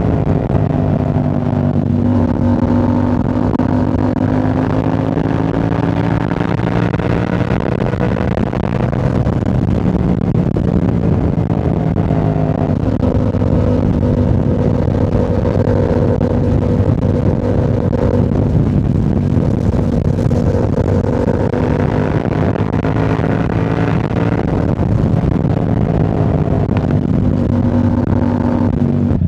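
Yamaha R7's parallel-twin engine through a Yoshimura AT2 full exhaust, running at a fairly steady cruise. Its pitch rises and falls gently with small throttle changes.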